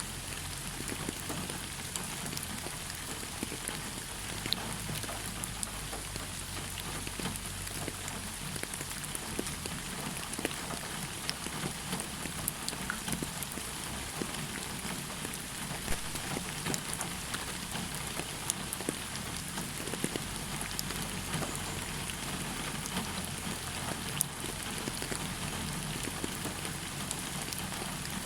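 Steady rain falling on a hard surface, a constant hiss with many scattered sharp drop ticks and a low rumble underneath.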